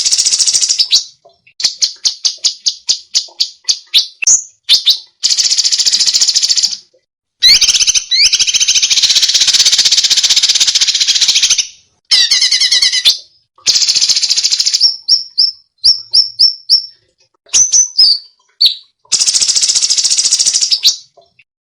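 Songbird song in rapid-fire 'tembakan' phrases: loud bursts of dense, harsh chatter, each lasting one to four seconds. They are broken by short pauses and by runs of quick separate notes.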